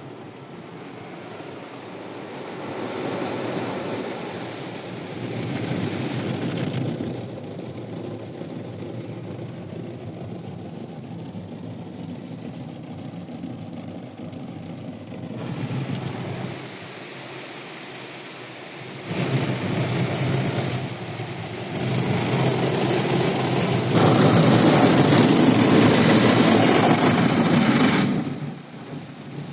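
Car wash running its cycle: rushing noise that comes and goes in stages, loudest about three-quarters of the way in, then dropping off near the end.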